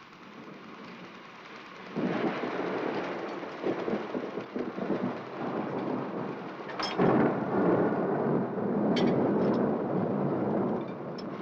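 Thunderstorm sound effect: thunder breaks in suddenly about two seconds in and rumbles on, with a sharper crack about seven seconds in, then dies down shortly before the end, over rain.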